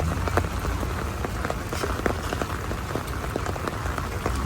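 Heavy rain falling steadily, with many separate drops striking close by in a dense, irregular patter over a steady low rumble.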